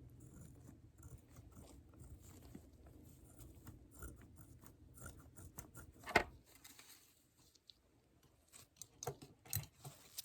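Close-miked ASMR handling noises: soft scattered clicks and crackles, a sharper knock about six seconds in, and a quick run of clicks near the end.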